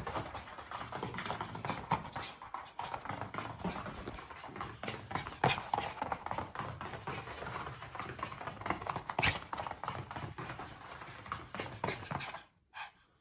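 A Pomeranian's paws and claws tapping on the floor in a quick, irregular patter as it races around in laps during a bout of zoomies. The sound drops out briefly near the end.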